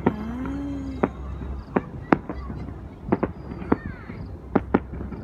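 Fireworks going off, a series of sharp bangs spaced irregularly about a second apart. In the first second a short, honk-like tone sounds once.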